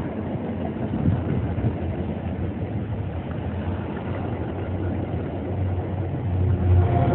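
MBTA diesel commuter train passing: a steady rumble of wheels and engine that grows louder near the end.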